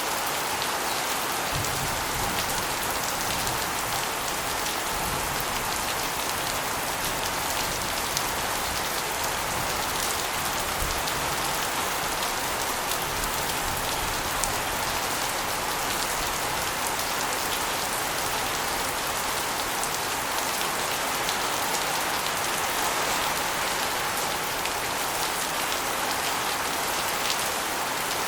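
Steady rain with water spilling off an asbestos roof and splashing onto a concrete floor and walls: a dense, even hiss with scattered sharper drop ticks.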